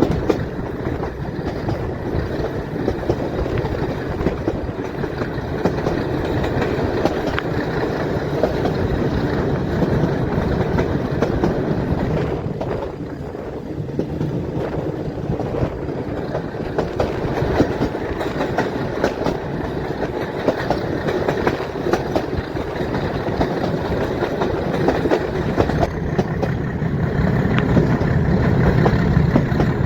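Metre-gauge train running, wheels clicking over the rail joints above a steady rumble of the coaches. A deeper rumble builds over the last few seconds.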